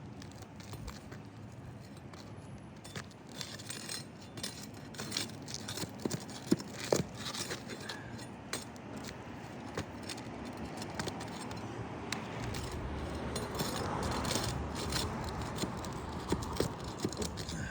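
Roofing hand tools working nails and brittle asphalt shingles loose: irregular metallic clicks, clinks and scrapes. A low rumble builds up in the second half.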